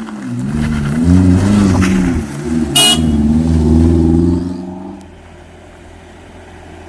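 Truck engine running hard under load, its pitch rising and falling, with a brief horn toot near the middle. The engine sound drops away about five seconds in, leaving a low steady hum.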